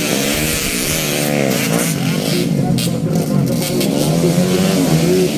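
Motocross bikes' engines revving, their pitch rising and falling repeatedly with throttle and gear changes, several engines overlapping.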